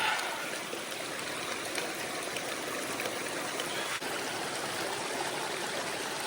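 Small snowmelt mountain stream flowing steadily.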